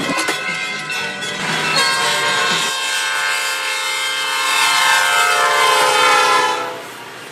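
Electric trolley car running on rail with some clicks from the track. From about two seconds in, a long, high, ringing tone holds for about five seconds, then fades away near the end.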